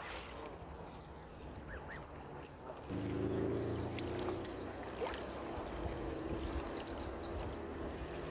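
Small birds chirping, with short high whistles and a few quick trills. About three seconds in, a steady low hum comes in under them and continues.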